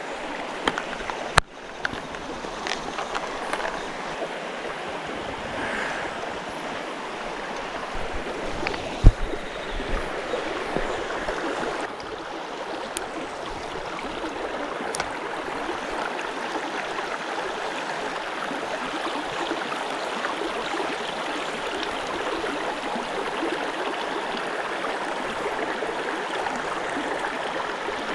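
Mountain stream water rushing and gurgling steadily over rocks. A sharp click comes about a second in, and a single loud thump about nine seconds in.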